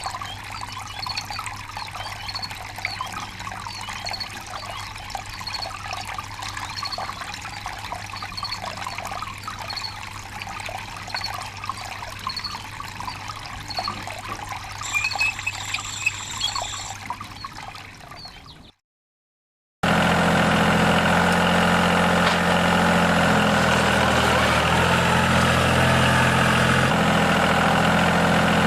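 Water pouring from a tractor-driven borewell pump, over a low steady engine hum. After a brief cut about two-thirds of the way in, the tractor engine is heard running steadily and louder.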